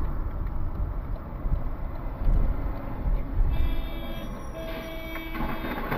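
Low, continuous rumble of a vehicle on the road, with a steady tone sounding for about two seconds near the end.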